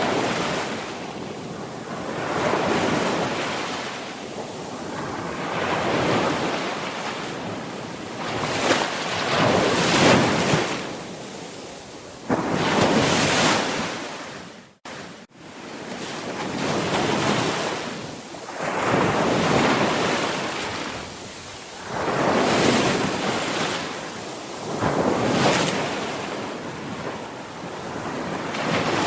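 Sea waves breaking and washing on a shore, swelling and fading every few seconds. The sound cuts out for a split second about halfway through.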